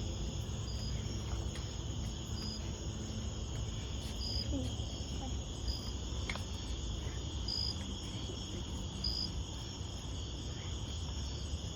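Crickets chirping at night: a steady high trill, with a sharper chirp repeating about once every second or so, over a low steady rumble.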